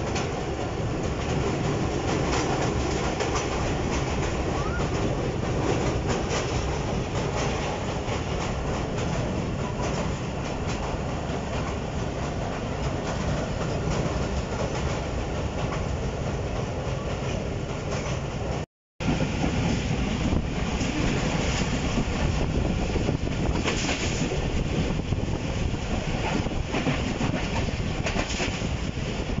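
Passenger train running, heard from inside a carriage at an open barred window: a steady rumble and clatter of the wheels on the rails, while crossing a steel truss bridge in the first part. The sound cuts out for a split second about two-thirds of the way through, then carries on the same.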